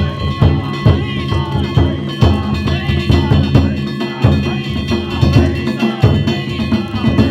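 Danjiri festival percussion (danjiri-bayashi): a taiko drum beaten in a steady, repeating rhythm, with metal hand gongs clanging and ringing over it.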